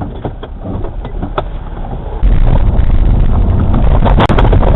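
Road and wind noise of a car driving, recorded on a dashcam, jumping suddenly much louder and rougher about two seconds in, with a sharp knock near the end.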